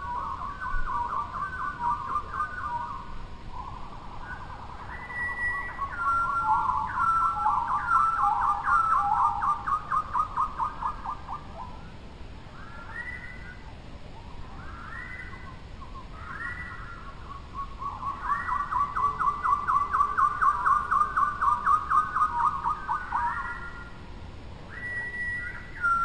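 Birdsong: runs of fast repeated whistled notes, about five a second, in two long phrases with a quieter gap between.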